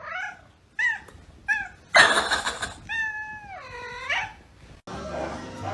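Cat meowing: three short, quick meows, then a rush of noise, then one long drawn-out meow that falls and rises again at the end.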